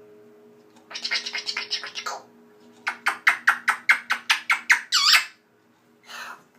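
Pet bird calling in quick runs of short, sharp squawks, about five a second, ending in one longer swooping call, over a faint steady hum.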